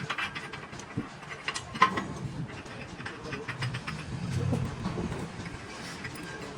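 Irregular mechanical clatter of sharp knocks over a low hum that swells about two-thirds of the way through.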